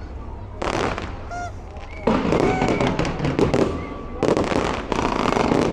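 A fireworks display going off in four rapid volleys of bangs and crackle, each lasting up to about a second and a half, with crowd voices whooping and calling out between them.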